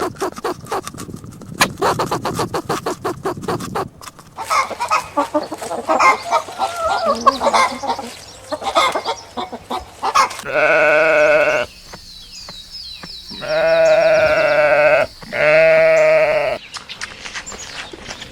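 A run of rapid clicking, then chirping calls, followed by three long, wavering bleats from livestock, the last two the longest and loudest.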